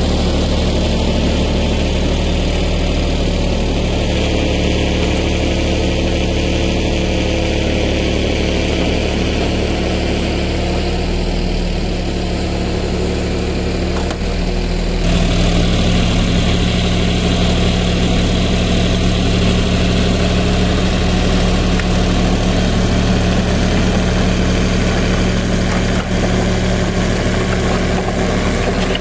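Tractor engine running steadily, stepping up a little in speed and loudness about halfway through.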